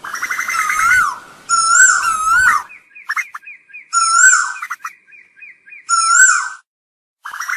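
Asian koel calling: loud bursts of swooping, rising-and-falling notes, each burst under a second, repeated several times, with a quicker run of short notes in between.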